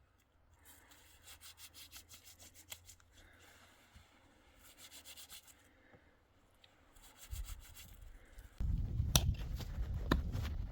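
Short rhythmic runs of rubbing or scraping strokes, a few a second. From about eight seconds in, a louder rumbling noise takes over, with scattered knocks.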